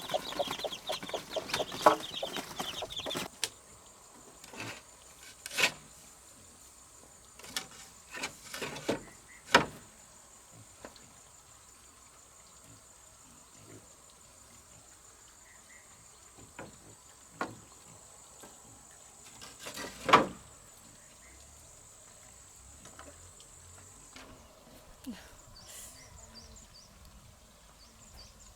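Chickens clucking. The first few seconds are busy; after that come scattered sharp knocks, the loudest about twenty seconds in, over a faint steady high-pitched whine that stops near the end.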